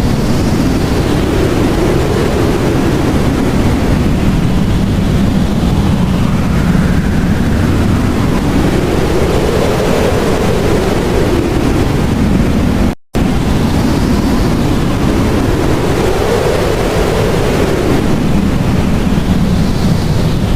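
Blizzard wind blowing hard, a steady rush with gusts that swell and fade every few seconds. The sound cuts out for a split second about thirteen seconds in.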